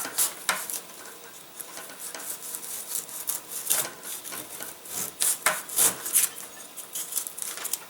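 A hand tool shaving down a balsa wood wing trailing edge to a taper, in irregular scraping strokes, the strongest a little past the middle.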